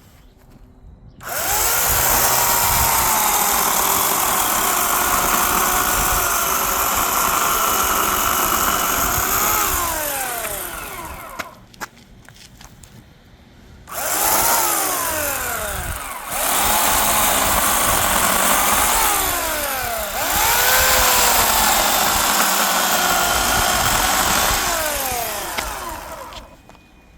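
Electric chainsaw cutting through a tree trunk log in two long runs with a short pause between. Its motor whine drops in pitch several times as the chain takes load in the cut, then picks back up.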